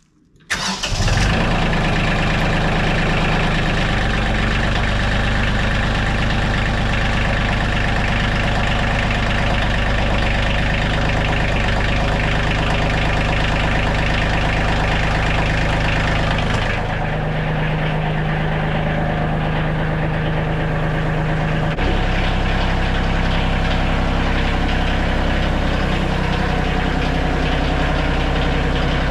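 Kioti tractor's diesel engine starting about half a second in, then running steadily, its engine speed shifting a few times.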